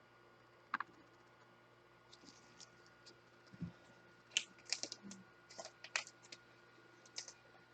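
Faint, irregular clicks and short scratchy rustles of trading cards being handled, slid and shuffled on a table, with a busier run of clicks in the middle.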